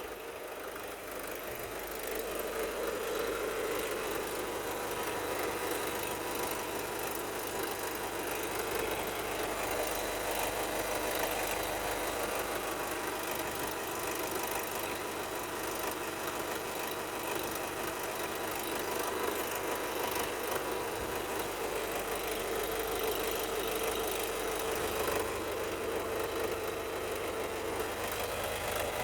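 Toyota Hilux's 2.5-litre 2KD-FTV four-cylinder turbodiesel running steadily during an engine test.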